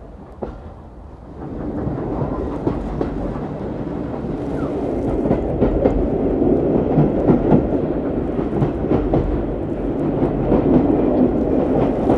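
Train running along the track, a loud steady rumble with scattered clicks and knocks from the wheels and rails. It swells about one and a half seconds in.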